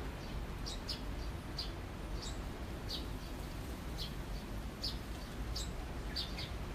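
A bird chirping over and over, a short high chirp roughly every second or a little faster, over a steady low background rumble.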